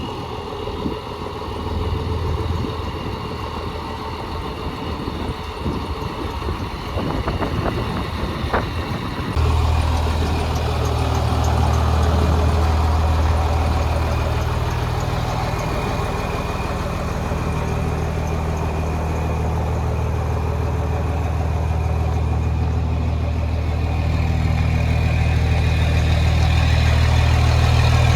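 1996 Ford L7000 dump truck's engine idling steadily. About nine seconds in the engine sound suddenly becomes louder and fuller, then holds steady.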